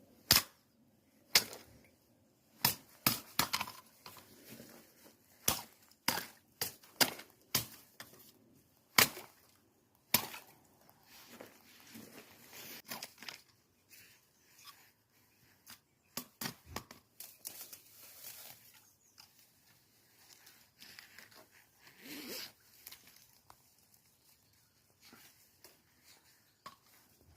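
Frozen pond ice being broken up: irregular sharp cracks and knocks with crunching, frequent and loud for the first ten seconds or so, then sparser and fainter.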